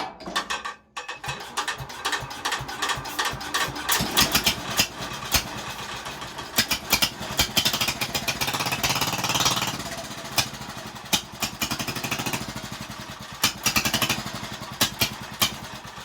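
Small tractor engine being cranked and firing roughly, a ragged run of uneven pops and bangs that thickens in the middle and thins again near the end. It is running without its fuel tank hooked up.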